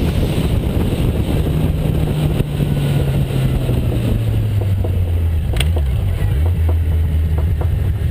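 Motorcycle engine running under way, its pitch dropping as it slows about halfway through, then holding steady.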